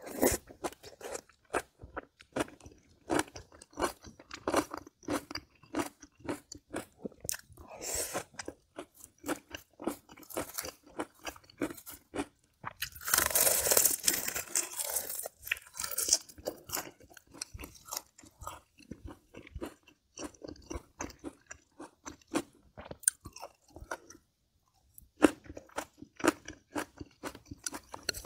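A person chewing and crunching mouthfuls of kimchi braised pork ribs, with many small wet clicks and smacks. The loudest, densest crunching comes about halfway through as a fresh mouthful goes in, and there is a brief pause near the end.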